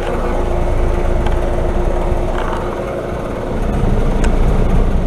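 American Standard Silver heat pump's outdoor unit running in heating mode: a steady low hum from the compressor and fan, with a steady tone that fades out about three seconds in.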